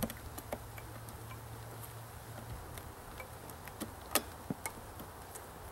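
Irregular light clicks and taps from handling a wooden honey bee package and its queen cage, the loudest a little past four seconds in, over a faint steady hum.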